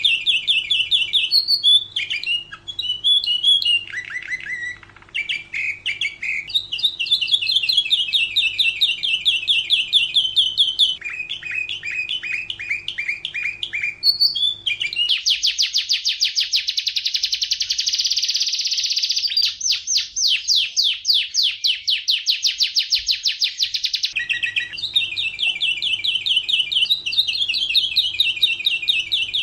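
Domestic canary singing a long continuous song of rapid trills and rolls, changing from one trill to the next every few seconds. In the middle comes a very fast, buzzing roll lasting about nine seconds before the ordinary trills resume.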